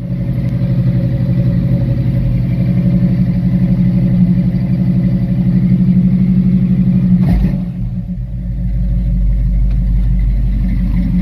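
Old pickup truck's engine running just after firing up from a long sit, steady at a fast idle. About seven seconds in there is a brief thump, and the engine settles to a lower, deeper idle.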